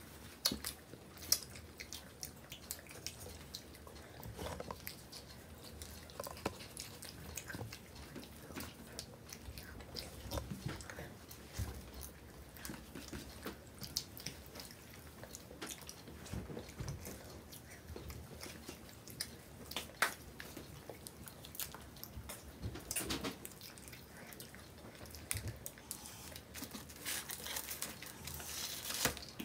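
Two people chewing and biting into pizza and an ice cream sandwich: fairly quiet mouth sounds with scattered small clicks and crunches, and a sharper click about two-thirds of the way through.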